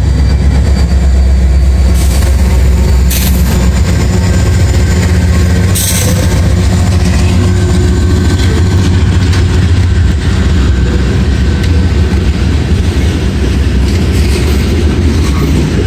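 Union Pacific diesel locomotives passing close by, their engines running with a loud, steady low rumble. Near the end, covered hopper cars roll past with their wheels clattering on the rails.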